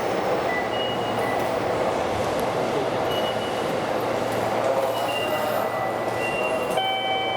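Steady rumbling noise of a train running on rails, with thin high tones coming and going and a chiming tone starting near the end.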